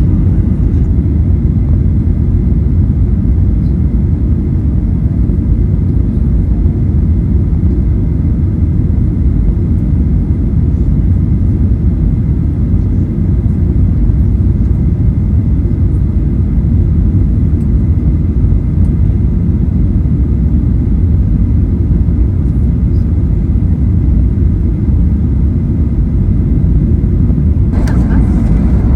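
Steady, loud low rumble of a Boeing 737-800 heard from inside the cabin: engine and airflow noise, with a faint steady whine above it. The noise brightens about a second before the end.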